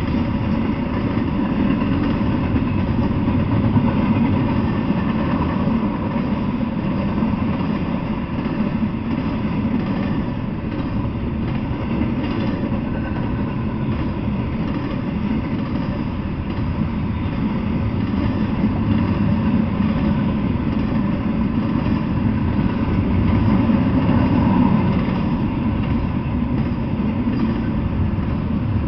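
Double-stack intermodal freight train running past at speed: a steady, loud rumble of steel wheels on the rails that keeps going without a break.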